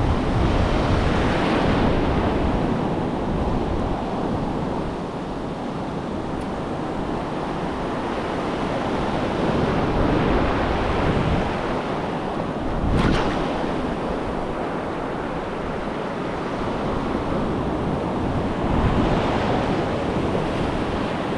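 Gulf surf breaking on the beach, its rush rising and falling in swells, with wind buffeting the microphone. There is a brief sharper crash about 13 seconds in.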